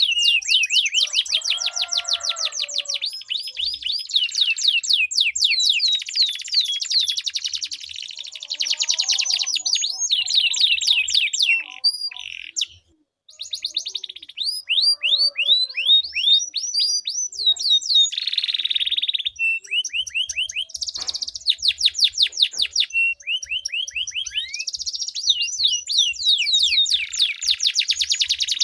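Domestic canaries singing long, rapid trills of repeated down-sweeping notes, one roll running into the next, with a brief break a little under halfway through.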